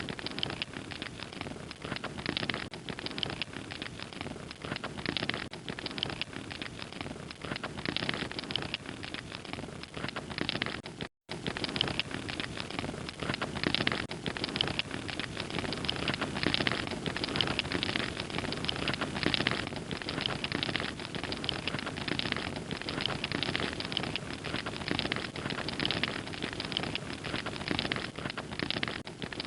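Wood fire crackling steadily, a dense run of small snaps and pops over a soft hiss, with a split-second break about eleven seconds in.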